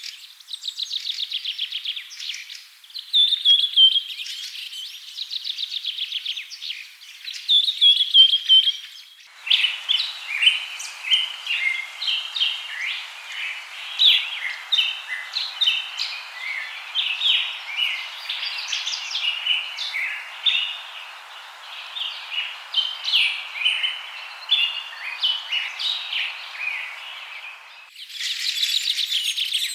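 Birdsong: a bird repeats a fast, slightly falling trill phrase over and over. About nine seconds in the sound changes abruptly to a busy chorus of many birds chirping over a steady hiss, and near the end the trilling returns.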